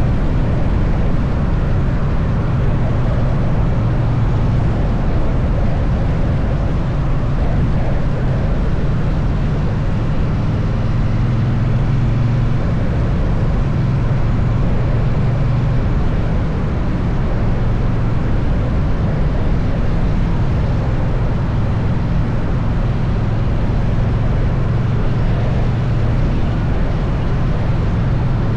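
Triumph Bonneville T100's parallel-twin engine cruising at a steady speed, a low even drone under a constant rush of wind and road noise.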